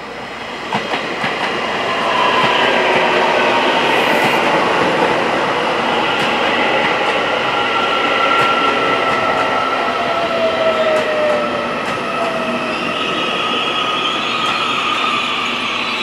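Taiwan Railways EMU800 electric multiple unit running past the platform: a loud, steady rumble of wheels on rail that builds over the first two seconds, with a few sharp clacks at the start. Thin whining tones slide downward in pitch as the train slows.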